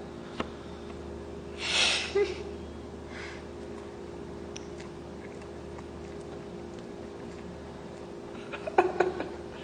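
Steady room hum. About two seconds in, a person gives one short, breathy sniff or snort, and a few light clicks follow. Near the end a brief vocal sound comes just before speech resumes.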